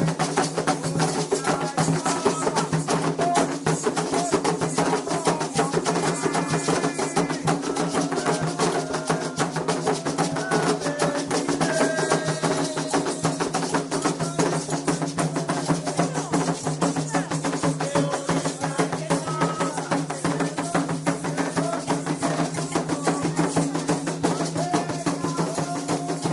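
Candomblé ritual music: atabaque hand drums and struck percussion playing a fast, dense, steady rhythm, with voices singing over it.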